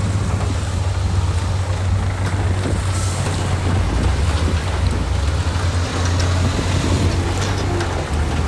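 Heavy diesel earthmoving machinery running steadily, a deep low engine rumble.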